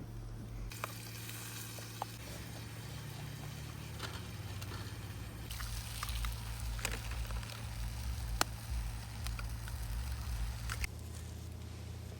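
Wood campfire crackling, with scattered sharp pops over a steady sizzling hiss.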